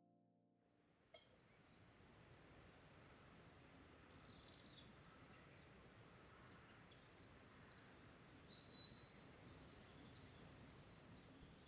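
Wild songbirds calling: a string of short, high-pitched chirps and trills, starting about a second in and coming every second or so, with a faint steady outdoor background.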